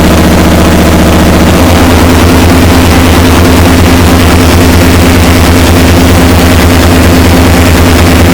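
Loud, distorted electronic noise drone: a pulsing low hum and steady stacked tones under a dense wash of hiss. The texture shifts about one and a half seconds in.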